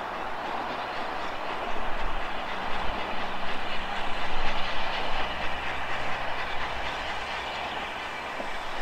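A train running past on the rails: a continuous rush that builds to its loudest about halfway through and then eases off.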